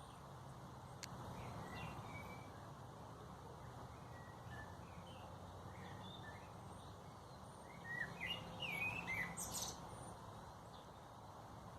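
Small birds chirping in short scattered calls, with a brief run of louder, quick chirps about eight seconds in, over a faint steady low background hum.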